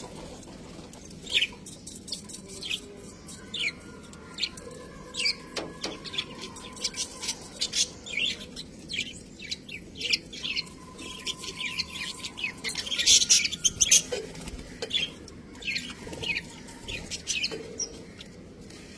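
Budgerigars chirping and chattering: a continual run of short, high chirps, busiest and loudest about two-thirds of the way through.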